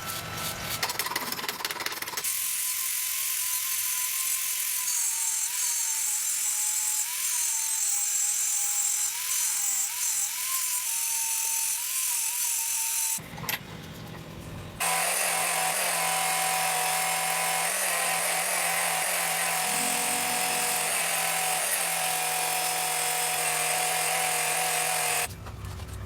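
Power tool running steadily in two cut-together stretches, its pitch wavering in the first and holding steady in the second, with a brief break between them.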